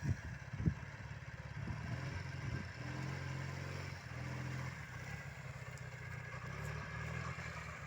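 Engine of a homemade quad bike built from a Ural motorcycle, an air-cooled flat-twin, running steadily. A short thump sounds under a second in.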